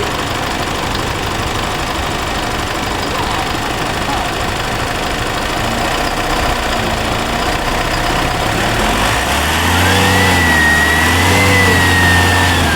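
Isuzu MU-X diesel engine idling, then revved twice about nine seconds in, with a high whistle rising as the revs climb and sinking slowly afterwards. This is the loud turbo noise whose cause the mechanic is hunting.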